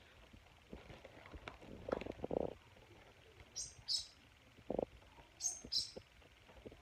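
Pet cockatoo fussing with a book: a few soft low grumbling sounds and two quick pairs of short scratchy crackles.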